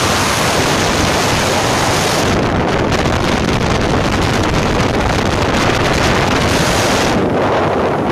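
Loud, steady wind buffeting the microphone, a dense rushing noise with no pitch; the highest hiss thins out a little past two seconds in and again near the end.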